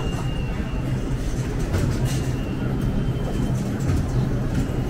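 Steady low rumble of a train running in an underground station, with scattered footsteps and faint crowd noise on top.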